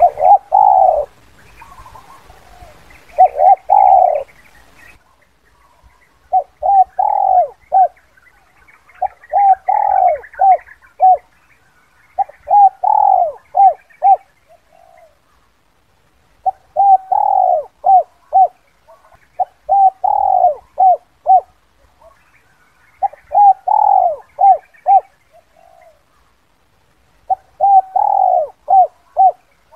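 Spotted dove cooing in the 'kuk 2' song type: phrases of several quick coos, repeated about every three to four seconds.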